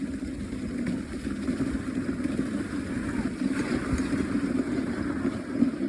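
Dog sled running over a packed snow trail: the runners give a steady rumbling scrape.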